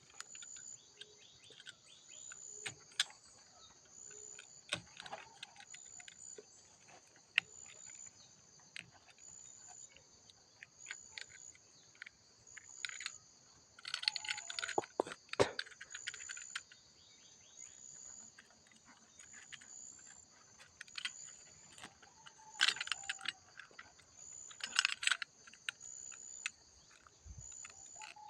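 Plastic grafting wrap rustling and clicking in irregular bursts as it is opened from a side-grafted cacao stem, over a steady chorus of insects.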